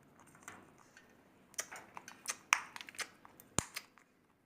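Parrots' beaks cracking and nibbling jujube (ber) seeds: an irregular run of sharp clicks and crunches starting about a second and a half in.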